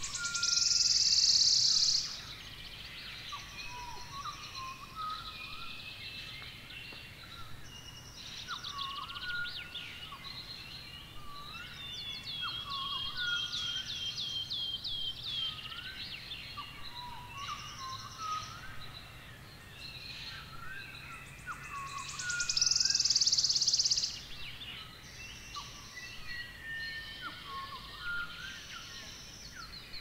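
Birds chirping and calling over steady outdoor background noise, with a rapid trill of repeated notes in the middle. Twice, about a second in and again about 23 s in, a loud high hissing buzz lasts about a second and a half.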